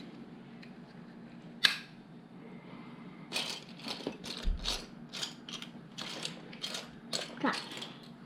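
Small plastic LEGO pieces clicking and rattling as they are handled. There is one sharp click about one and a half seconds in, then a run of quick clicks, about three a second, for some four seconds.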